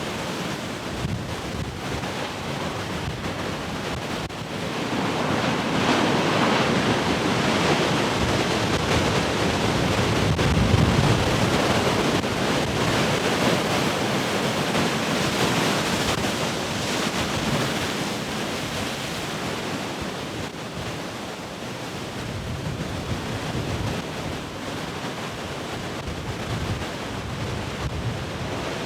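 Heavy ocean surf breaking and washing in a continuous roar of noise, building to its loudest swell from about five seconds in and easing off after about twenty seconds. Wind buffets the microphone throughout.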